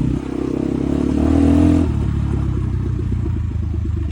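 Enduro motorcycle engine revving, its pitch rising for nearly two seconds, then dropping suddenly to a lower, steady running note with an even beat.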